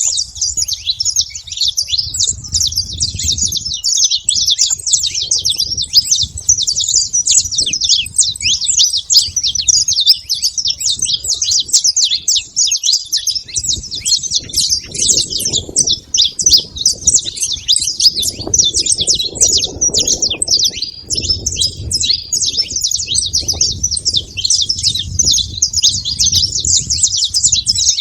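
Saffron finch singing a long, unbroken run of rapid high chirping notes. A low rumble comes and goes underneath.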